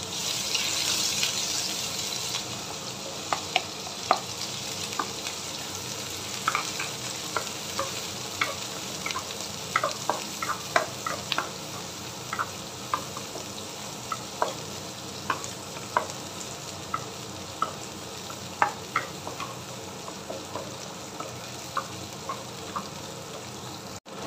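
Chopped onion and lemongrass sizzling in hot oil in a non-stick wok, stirred with a wooden spatula that knocks and scrapes against the pan in frequent short ticks. The sizzle is loudest in the first couple of seconds, then settles to a steady hiss.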